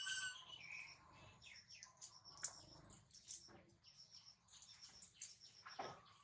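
Faint birdsong: many short chirps and whistles, with a rapid, even, high-pitched pulsing chirp running underneath.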